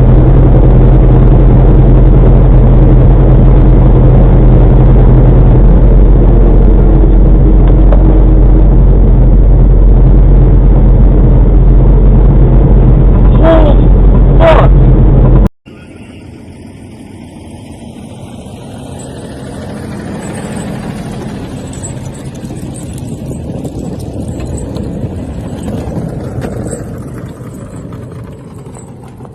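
Car dashcam audio: loud, steady road and engine noise, with two short high-pitched sounds just before a cut about halfway in. After the cut, quieter traffic noise swells and then fades.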